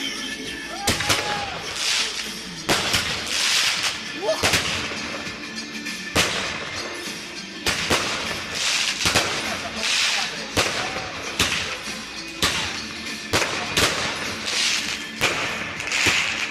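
Fireworks going off: sharp bangs at irregular intervals, one to two seconds apart, several followed by a crackling hiss.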